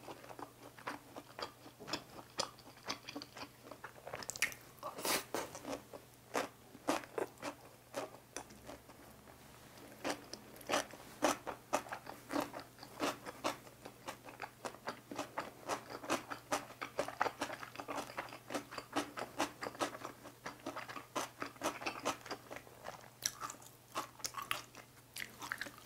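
Close-miked chewing of a cucumber kimbap roll: crisp crunching with wet mouth sounds, easing off briefly about a third of the way in. A faint steady low hum lies underneath.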